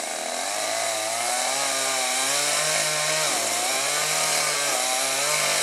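Two-stroke chainsaw running at high revs as it cuts through a fir trunk, its pitch wavering up and down under load.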